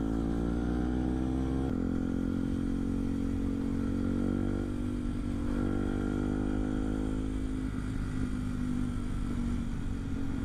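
Motorcycle engine running under way, heard from a camera mounted on the bike. Its note climbs a little over the first couple of seconds, then changes abruptly to another bike's engine that holds a fairly steady note.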